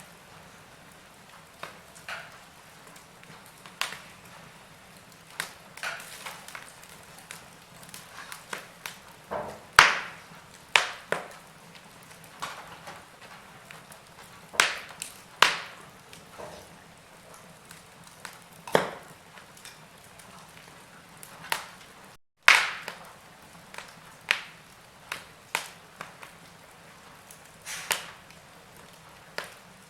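Wood fire in a fireplace crackling: irregular sharp pops and snaps of burning logs, some loud, over a soft steady hiss.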